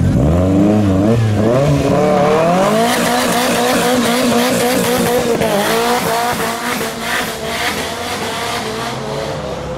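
A car pulling away hard with its engine revving up, then held at high revs while its tyres squeal through a wheelspin or slide, from about two and a half seconds in to near the end.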